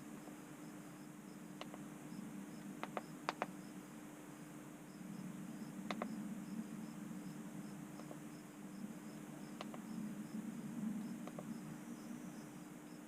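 Low steady hum with a faint, evenly repeating high-pitched pulse, broken by a few scattered light clicks.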